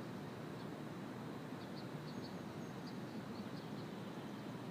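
Steady outdoor background noise with a few faint, short, high bird chirps scattered through the middle.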